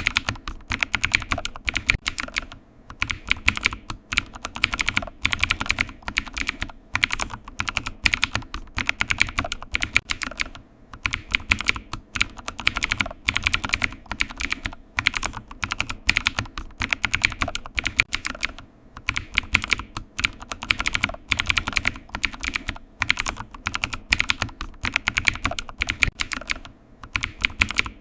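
Typing on a computer keyboard: quick, uneven key clicks in runs, with short pauses now and then.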